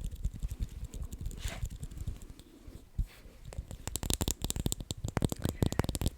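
Close-miked ASMR trigger sounds: a soft low rumble with quick crackly taps and clicks, which get faster and sharper about four seconds in.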